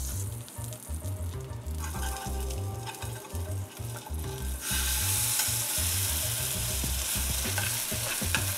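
A tofu-and-coconut-milk vegan egg sizzling in butter in a hot nonstick frying pan, with a spatula scraping under it. A little past halfway the sizzle grows suddenly louder and stays loud as the egg is flipped onto its raw side.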